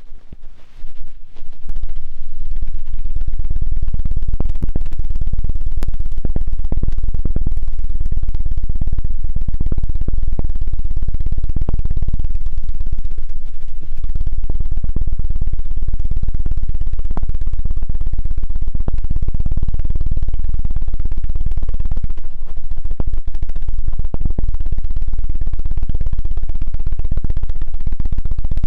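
ASMR 'helicopter' ear-cleaning trigger: rapid, dense low thumping worked on the microphone. It builds up over the first couple of seconds, then runs loud and continuous with slight swells and dips.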